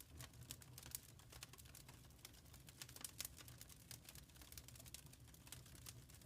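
Wood fire crackling faintly: a quick, irregular run of small sharp pops and snaps, several a second, over a soft low rumble of the flames.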